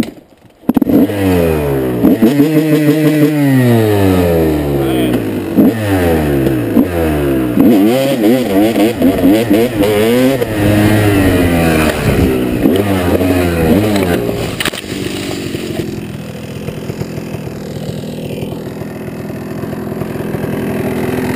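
2002 Honda CR250 two-stroke dirt bike engine comes in loud about a second in, revving up and dropping back again and again as it pulls through the gears. About fourteen seconds in there is a short knock, and the engine then runs on steadier and lower.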